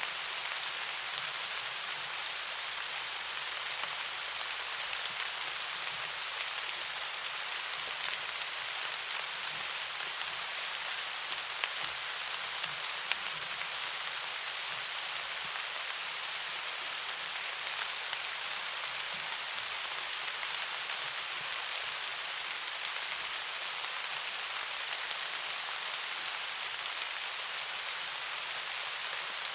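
Steady rainfall: a dense, even hiss of raindrops, with now and then a slightly louder single drop tick.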